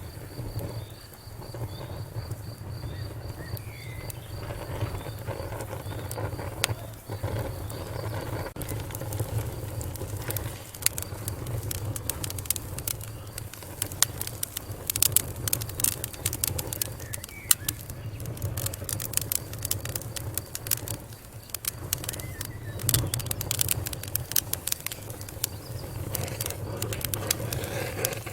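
Wood fire crackling, with sharp snaps and pops over a low steady rumble; the pops grow much denser about ten seconds in.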